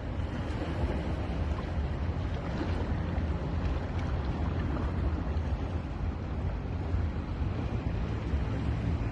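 Ocean surf on a beach, a steady rush of waves with no single breaker standing out, under a deep rumble of wind on the microphone.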